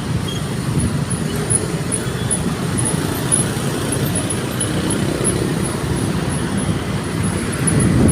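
Steady road traffic noise: car engines and tyres running in city traffic.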